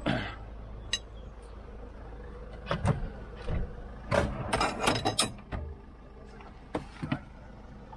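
Knocks, clinks and rattles of recovery gear being handled in the back of a recovery vehicle, with a dense flurry of clinks and knocks about four to five seconds in.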